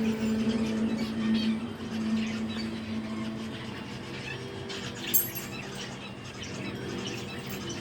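Pet birds chirping over a steady low hum, which fades somewhat about halfway through. There is one sharp click about five seconds in.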